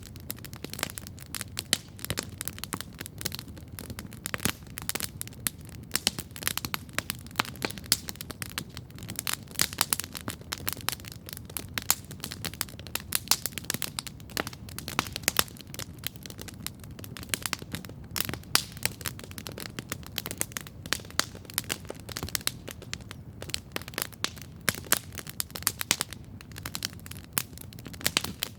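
Wood campfire crackling steadily, with many irregular sharp pops and snaps over a low, steady rush of the flames.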